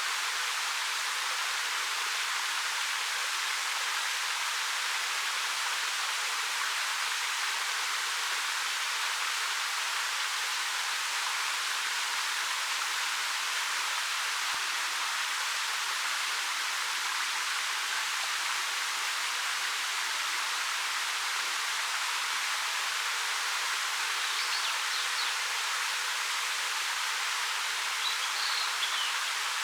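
A 13 m waterfall, Ariake Falls, pouring down a rock face: a steady, even rush of water, bright and hissy rather than deep. Two faint high chirps come in near the end.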